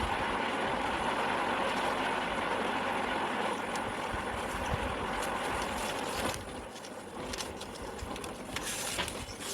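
Steady road and engine noise of a moving vehicle, which drops off suddenly about six seconds in, leaving quieter noise with a few scattered clicks.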